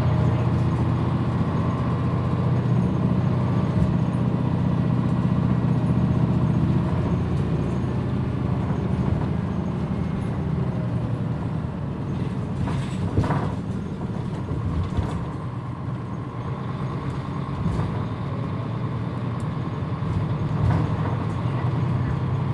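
Mitsubishi Fuso Aero Star (PJ-MP35JM) city bus heard from on board while under way: a steady engine and drivetrain drone, louder for the first several seconds, easing off through the middle and building again near the end. A short sharp noise stands out about 13 seconds in.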